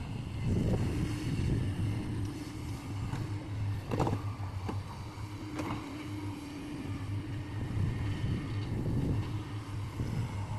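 Heavy diesel engine of an excavator running steadily, with a few sharp knocks partway through.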